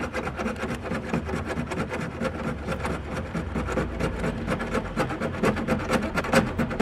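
Handsaw cutting a groove into a box frame, in quick, even back-and-forth strokes, about four or five a second.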